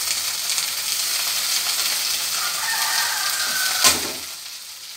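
Freshly washed drumstick (moringa) leaves sizzling as they drop into hot oil in a steel pan with frying shallots and dried chillies, with a steady hiss that eases near the end. A single sharp knock against the pan about four seconds in.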